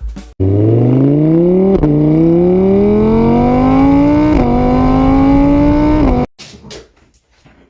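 Car engine accelerating hard through the gears: the pitch rises, drops at two upshifts and climbs again, then cuts off suddenly.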